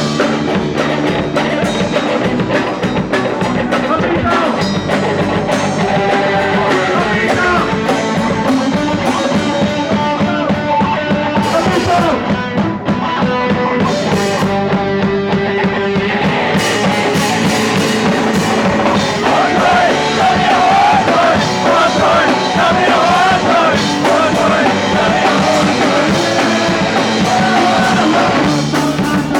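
Punk rock band playing live: electric guitar, bass and drum kit, with singing. For a few seconds near the middle the cymbals drop out before the full band comes back in.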